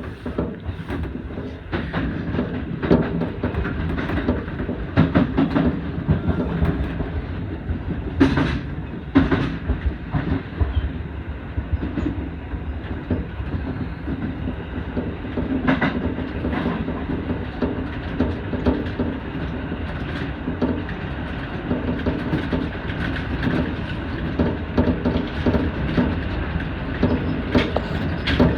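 Tobu Urban Park Line electric commuter train running at speed, heard from inside the leading car: a steady rumble of the running gear with irregular clicks and clacks as the wheels pass over rail joints, a few of them louder.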